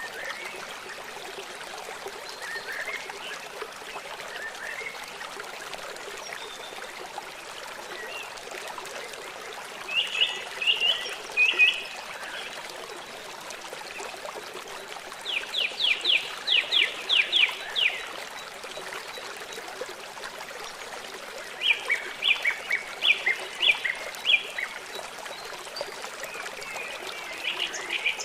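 River water running steadily, with a bird calling in quick runs of short, high notes, three times and again faintly near the end.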